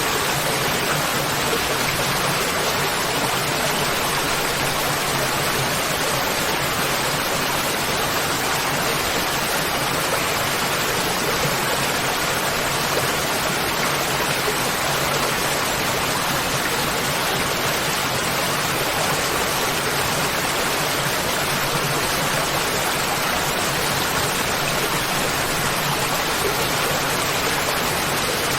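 Waterfall: water falling and rushing in a steady, even roar with no change in level.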